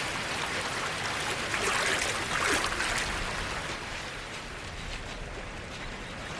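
Creek water flowing and splashing steadily, a little louder in the first half.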